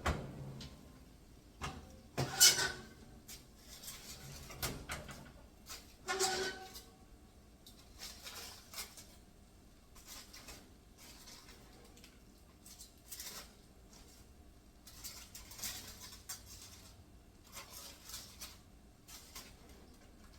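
Cookware being handled: scattered clicks, knocks and clatters of dishes and lids, with louder clatters about two seconds in and again around six seconds in.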